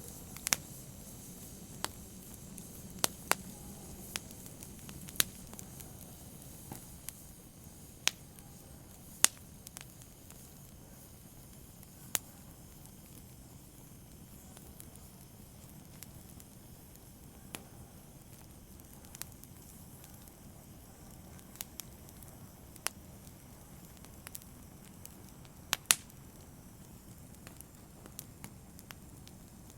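Open fire burning, with a soft low hiss and sharp, irregular crackles and pops. The pops come thickly for the first ten seconds or so, then thin out, with a loud double pop late on.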